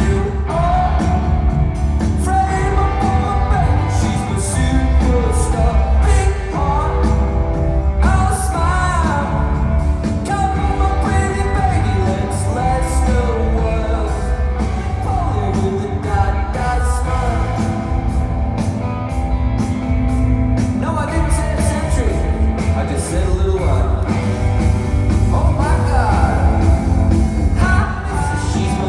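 Live rock band playing a song with a singer's voice over it, with heavy bass and a steady drum beat.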